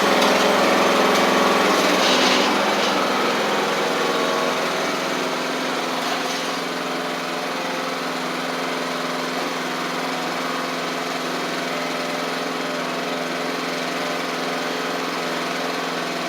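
Craftsman LT1000 lawn tractor engine running steadily. It is a little louder for the first few seconds, then settles to an even running note.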